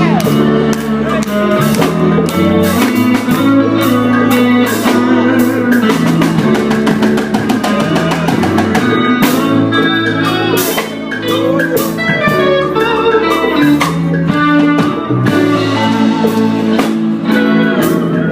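Live gospel band playing: electric guitar, bass and drum kit in a steady groove.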